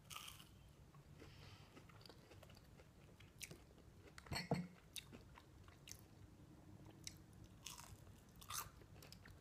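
Faint close-up chewing of crunchy fried onion rings, with a few sharp crunches as bites are taken, the loudest about four and a half seconds in.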